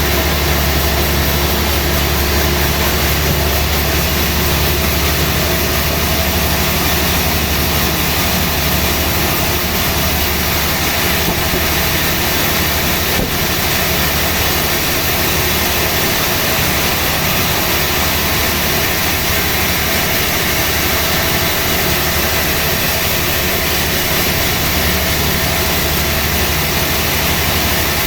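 Sawmill machinery running steadily: a constant low drone under a loud, even hiss, with no breaks or changes.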